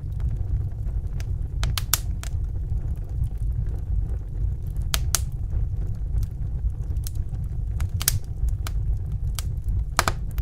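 Wood fire crackling: irregular sharp snaps and pops, about a dozen, over a steady low rumble of burning.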